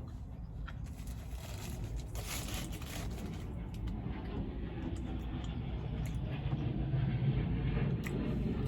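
Aircraft flying overhead: a low rumble that grows steadily louder.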